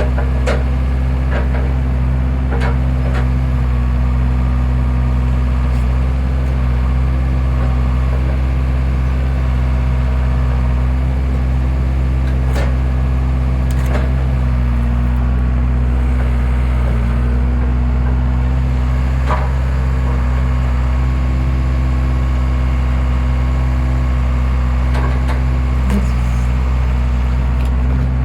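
Skid steer engine running steadily with an even low drone, powering a wood splitter, with a few sharp knocks and cracks of wood scattered through.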